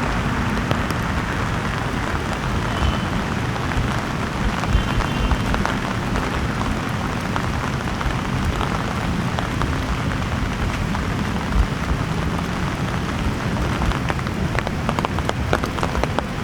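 Heavy rain falling steadily, with many single drops ticking sharply close to the microphone, more of them near the end.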